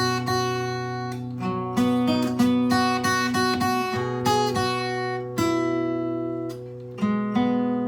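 Solo acoustic guitar played fingerstyle: a plucked melody with chords over ringing bass notes, a new note or chord about every half second, with a longer held chord in the middle.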